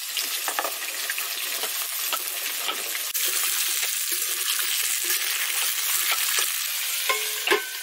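Cut drumstick (moringa) pods and potato pieces sizzling steadily in hot mustard oil in a kadhai, stirred with a metal spatula that scrapes the pan now and then. A louder knock comes near the end.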